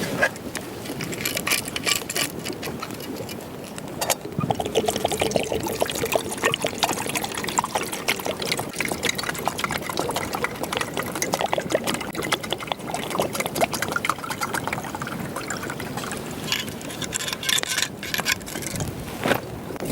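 Water lapping, trickling and splashing, with many small irregular splashes.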